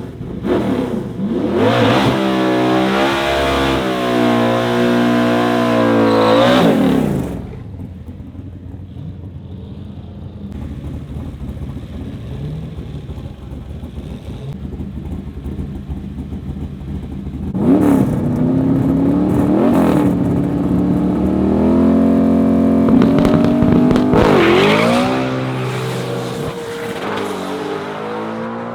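Drag-racing car engines at full throttle, revving up with the pitch climbing and dropping back at each manual gear change. A loud stretch of about seven seconds ends abruptly, engine noise runs lower for ten seconds, then a second loud run of climbing revs and shifts starts about 18 seconds in and fades near the end.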